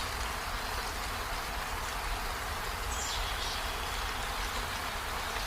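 Steady rain falling, an even hiss with a low rumble beneath it. A brief high chirp sounds about three seconds in.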